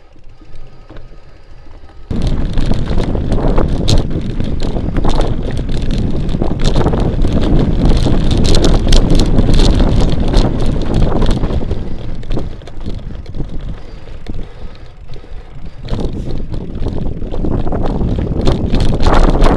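Wind buffeting an action camera's microphone on a moving mountain bike, with the rattle and crunch of tyres on a dirt trail. It starts abruptly about two seconds in and stays loud, easing off briefly near the middle.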